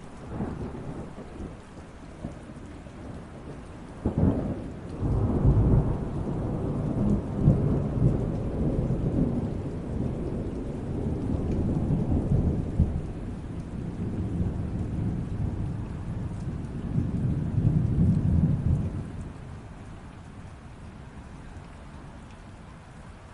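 Steady rain with a thunderclap about four seconds in, followed by a long low rolling rumble of thunder that dies away near the end, leaving the rain.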